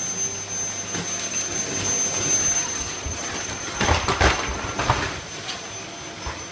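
Vacuum cleaner running with a steady whine, broken about two-thirds of the way through by a quick cluster of bumps and scuffs, the loudest sounds here.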